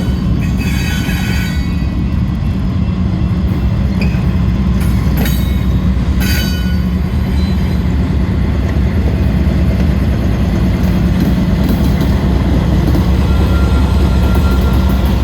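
Norfolk Southern freight train rolling past with a steady heavy low rumble. Short high-pitched wheel squeals cut in near the start, twice around the middle, and faintly near the end.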